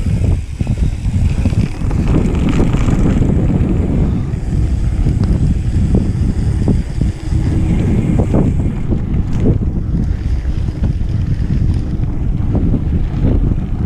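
Wind buffeting the microphone of a camera carried on a mountain bike riding a dirt trail, with scattered knocks and rattles from the bike over rough ground.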